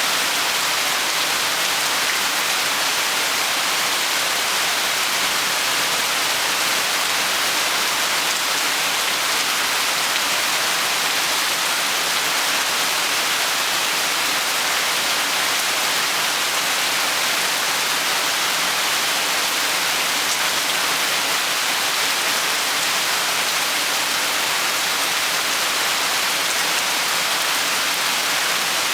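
Steady heavy rain falling, an even hiss without letup.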